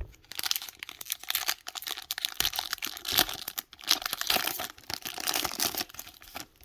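Foil wrapper of a Pokémon booster pack crinkling and crackling as it is handled and torn, a dense run of quick crackles that fades near the end.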